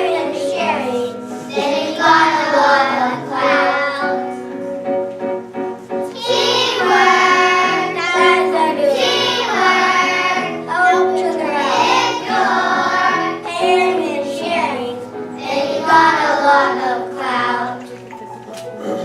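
A group of children singing a song in phrases over recorded backing music; the singing fades out near the end, leaving the music.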